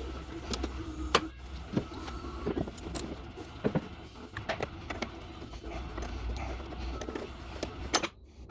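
Hand tools and metal car parts clinking and knocking at an irregular pace, with sharp metallic ticks scattered throughout, during work in a car's engine bay. The sound cuts off abruptly near the end.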